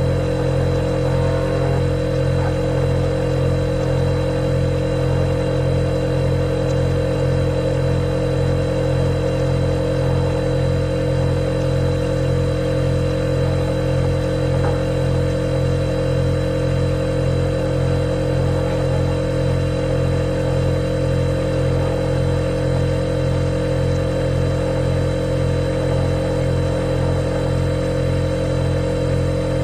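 Refrigerator running with a steady, unchanging hum made of several low tones, with a faint thin high tone above it.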